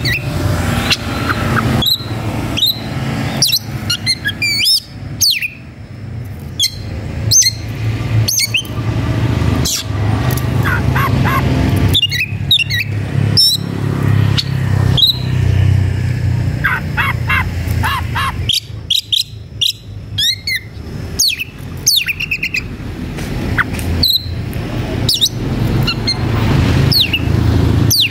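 Oriental magpie-robin singing a loud, fast, varied song of whistles, chirps and sliding notes. This is the agitated song of a bird challenging a rival. A steady low hum runs underneath.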